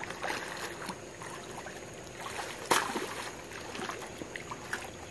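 Swimming-pool water sloshing and trickling as a child flips in a mermaid tail, with one sharper splash about halfway through.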